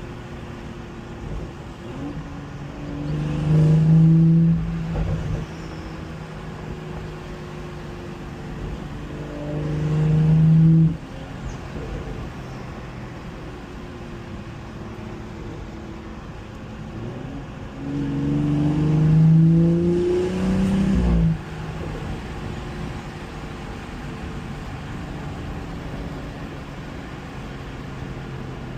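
BMW 440i's turbocharged inline-six with catless downpipes and both resonators deleted, idling steadily and free-revved three times. The first two revs are single rises in pitch; the third, near the end, is a longer rev with two peaks. Each rev drops back abruptly to idle.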